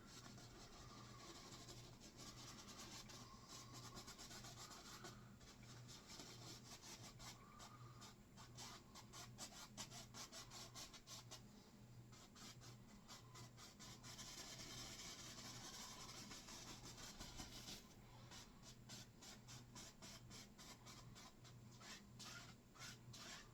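Faint scratchy rubbing of a fan brush on canvas, dabbing and softening wet oil-paint clouds in many short strokes. A low steady hum runs underneath.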